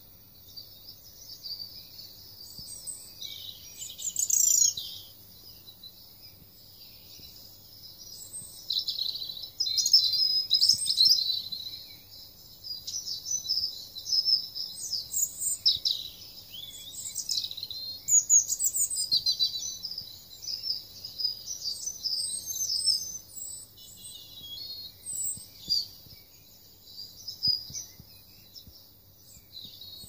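Songbirds singing in woodland: an unbroken run of high chirps and short trilled phrases from several birds, some phrases louder and closer than others.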